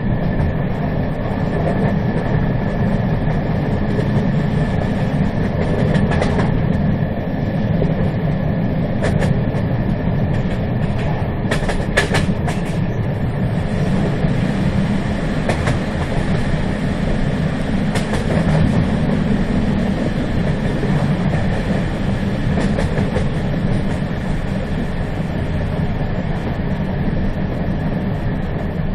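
Moving train running steadily with a continuous low rumble and the clickety-clack of its wheels. Sharp clicks come here and there, with a brief cluster about twelve seconds in.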